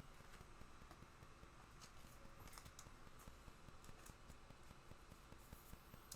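Near silence with faint, irregular clicks and light scrapes of trading cards being handled and flipped through.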